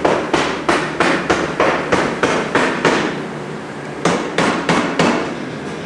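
Rapid repeated hammer blows, about three a second, pausing for under a second about three seconds in before resuming.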